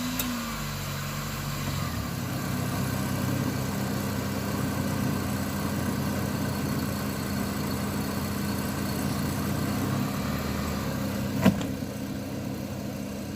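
A 2000 Chevrolet Cavalier's 2.2-litre four-cylinder engine idling steadily just after starting, its speed settling down in the first second or two. A single sharp knock about three-quarters of the way through.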